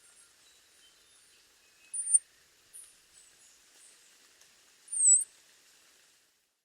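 Small birds chirping: short, very high chirps over a faint hiss, the two loudest about two and five seconds in. The sound cuts off near the end.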